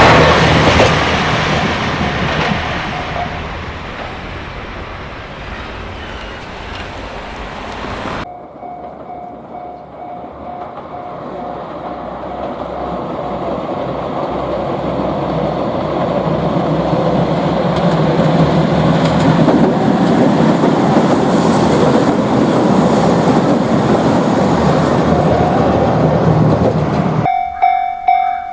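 A train rumbling over the rails, loud at first and fading away. After a sudden cut, a faint level-crossing bell and then another train rumble that builds steadily over about fifteen seconds. Near the end a sudden cut to a Japanese level-crossing bell clanging "kan-kan" about twice a second.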